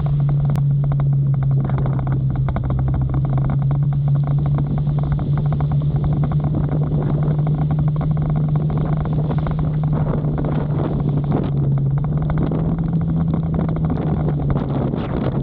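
Motorcycle engine running at a steady cruising speed, a low even hum whose pitch shifts slightly about twelve seconds in. Over it is a constant rushing noise of wind and rain.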